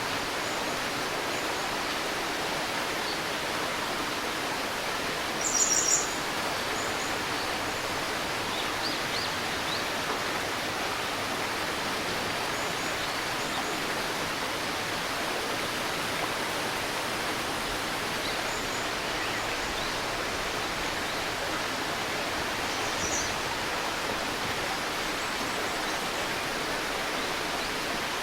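Steady rushing of a flowing river or stream, with a few short bird chirps scattered over it; the loudest chirps come about five to six seconds in.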